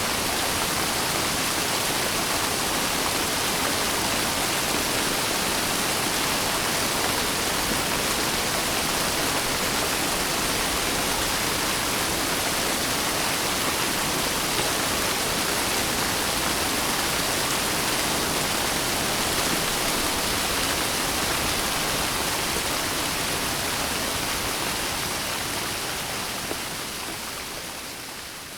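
Steady rain, a dense even hiss of falling water, fading out over the last few seconds.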